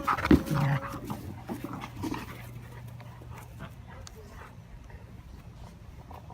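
A dog panting while it plays with an inflated ball, with a few loud thumps in the first second.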